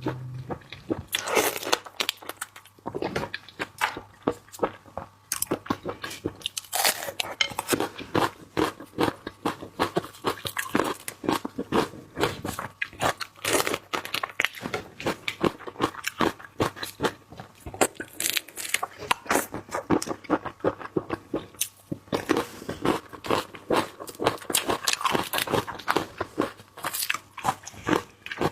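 Close-miked eating of raw prawns: continual biting, crunching and wet chewing in quick, irregular crackles.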